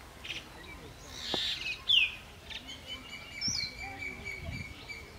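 Birds chirping: a series of short falling calls. A steady high-pitched note is held through the second half.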